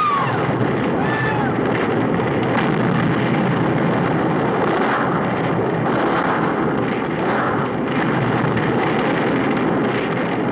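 Film soundtrack explosion and gasoline fire: a loud, dense, continuous roar, with a couple of shrill gliding cries in the first second or so.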